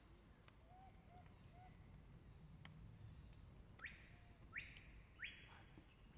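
Near silence with faint bird calls: a few soft short notes, then three short rising chirps in quick succession in the second half.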